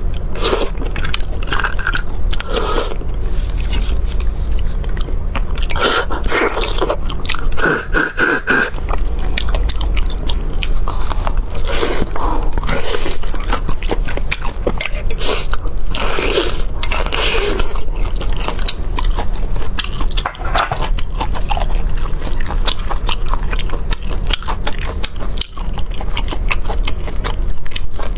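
Close-miked chewing and wet mouth sounds of a person eating braised beef bone marrow and meat: many small clicks and smacks. Scraping and rubbing come in as plastic-gloved hands work the bone.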